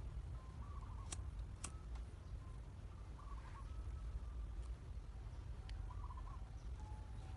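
A bird calling: a short warbling call repeated about every two and a half seconds, over a steady low rumble, with two sharp clicks about a second in.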